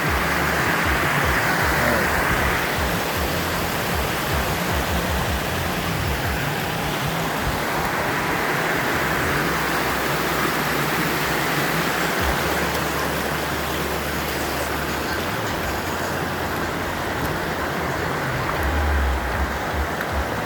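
Steady rushing of a creek's water flowing over rocks, with uneven bursts of low rumble.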